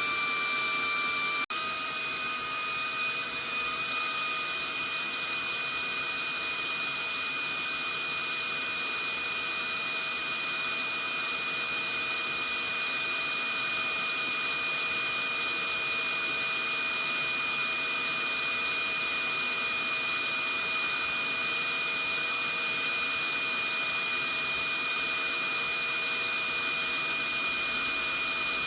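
Vacuum cleaner motor running steadily: an even rushing hiss with a high whine on top. About a second and a half in, the sound cuts out for an instant and comes back with its whine pitched slightly differently, a little louder for a few seconds before settling.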